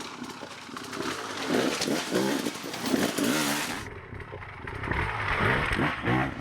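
Dirt bike engine revving up and easing off again and again, with a hiss of noise over the first half that stops abruptly just before the midpoint.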